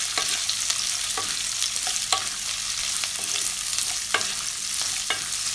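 Chopped capsicum sizzling in hot oil in a nonstick kadhai while being stirred with a spatula that scrapes and knocks against the pan now and then.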